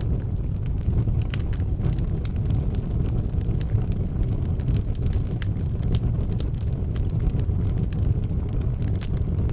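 Wood fire in an outdoor fireplace burning, with frequent sharp crackles and pops scattered irregularly over a steady low rumble.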